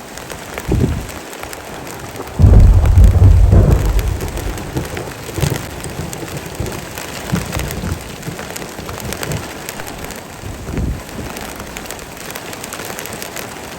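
Heavy rain falling steadily, with a loud low thunder rumble starting about two and a half seconds in and fading over a second or two. Fainter low rumbles come shortly before it and again near the end.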